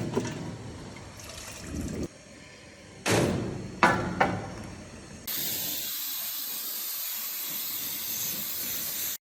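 A few knocks and clanks, three of them sharp, then a steady spraying hiss that starts suddenly about five seconds in and cuts off abruptly near the end.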